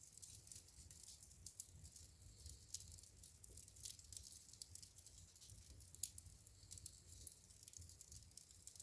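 Wood fire crackling in a fireplace: faint, irregular pops and snaps, two sharper pops standing out, over a low rumble.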